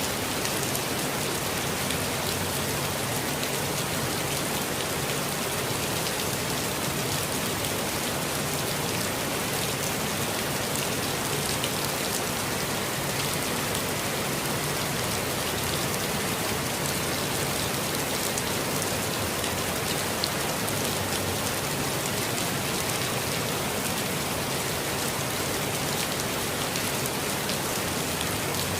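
Steady rainfall, an even hiss of drops pattering on surfaces with no breaks or thunder.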